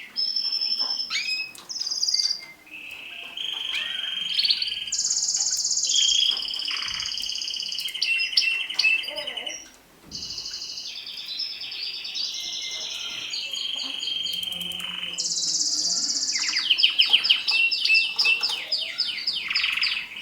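Mosaic canary singing: a long song of rapid trills and rolls, jumping between high and lower pitches phrase by phrase, with brief pauses about two and a half and ten seconds in.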